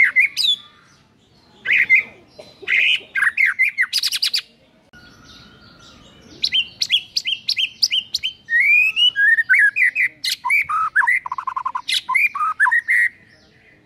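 White-rumped shama (murai batu) singing a varied, rapid string of phrases. There are short whistles, a very fast rattle about four seconds in, and after a brief pause runs of quick repeated notes and warbling trills, the mix of learned imitations ('isian') that this bird is kept and recorded for.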